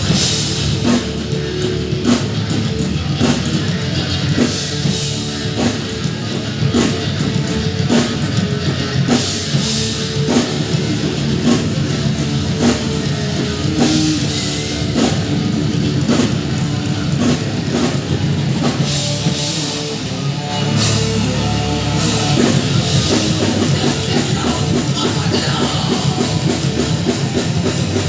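A rock band playing live: heavy, loud rock with a drum kit beating steadily under guitar.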